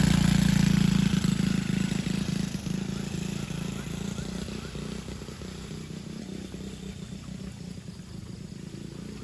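Small motocross bike engine running as it rides around a dirt track, loud at first and fading steadily as it moves away.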